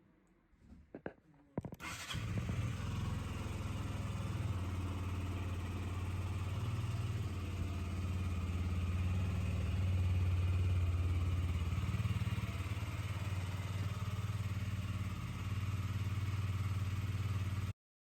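Husqvarna Svartpilen 125's single-cylinder engine starting about two seconds in after a few clicks, then idling steadily until it cuts off suddenly near the end.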